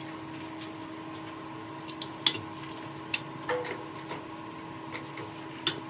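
A steady electric machine hum with scattered sharp clicks and taps of tools being handled, the loudest about two seconds in.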